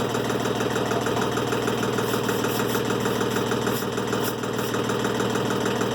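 Timberking 1400 sawmill's engine idling steadily.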